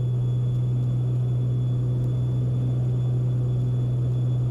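Steady drone of a Beechcraft Baron B55's twin piston engines and propellers heard from inside the cabin: a deep, even hum that holds one pitch throughout.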